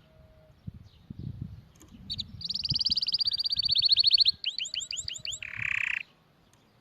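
Canary singing one phrase: a fast, even trill, then a run of about six quick downward-sweeping notes, ending on a short harsh buzzing note.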